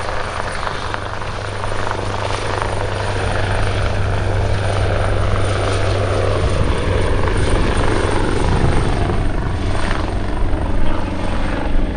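AgustaWestland AW139 twin-turbine helicopter running, with a steady low rotor hum under a turbine whine. It grows gradually louder, and the whine slides down in pitch over the second half.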